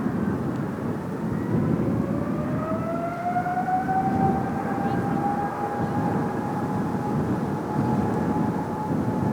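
General Electric GE90 turbofan on a Boeing 777 spooling up: a whine rises in pitch for a couple of seconds, then holds steady over a low rumble.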